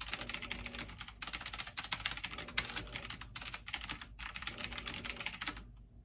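Fast typing on a computer keyboard: rapid key clicks in runs, broken by three short pauses, stopping shortly before the end.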